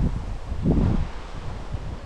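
Wind through a forest, a steady rustling hiss, with a low rumble of wind on the microphone about half a second in.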